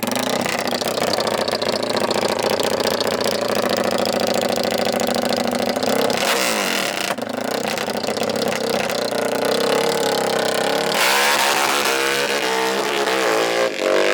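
Dirt bike and ATV engines running loudly and revving, their pitch rising and falling, with a change in the revving about six seconds in and again about eleven seconds in.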